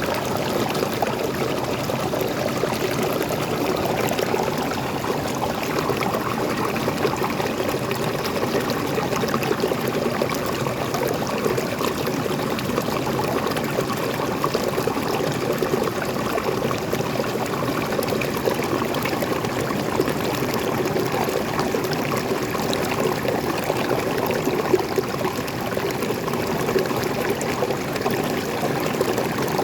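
Small waterfall pouring and splashing, a steady, even rush of falling water.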